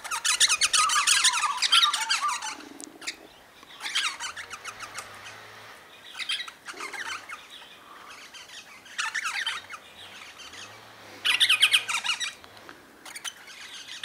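Wild birds at a feeder calling in bursts of harsh, rapid chattering, the longest burst at the start and shorter ones every two to three seconds after.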